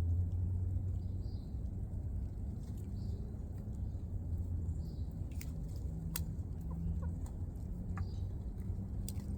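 Chickens clucking, with faint high chirps recurring about every second and a half and a few sharp clicks in the second half.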